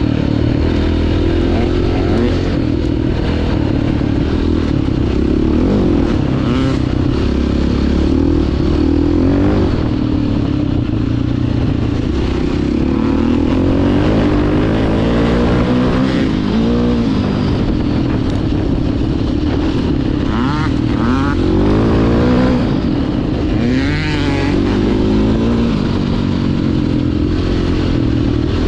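Enduro dirt bike engine under way on a trail, its pitch rising and falling again and again as the throttle opens and closes through the ride.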